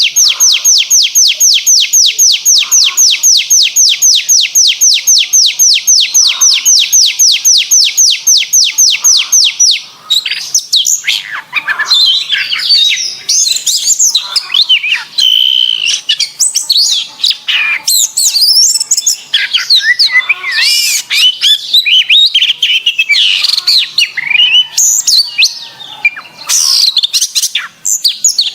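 Domestic canary singing. It opens with a long tour of identical notes, each sweeping downward, repeated about five or six times a second for some ten seconds, then breaks into varied, rapid warbling trills and whistles.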